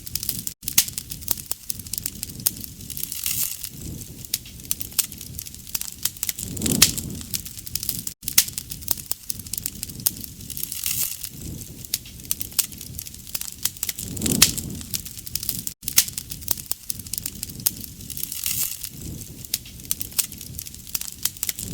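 Wood fire burning, with constant sharp crackles and pops and a low swell that returns about every seven and a half seconds.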